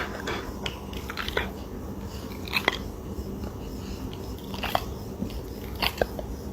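A pet chewing and crunching on something, with a handful of sharp, irregular crunches over a steady low hum.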